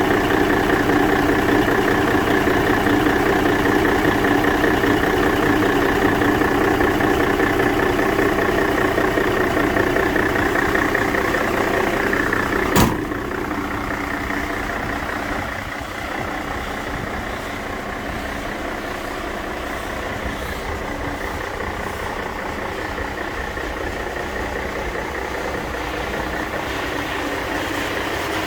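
Mercedes-Benz Actros 1831 4x4 truck's diesel engine idling steadily. A single sharp click comes about halfway through, after which the engine sounds a little quieter.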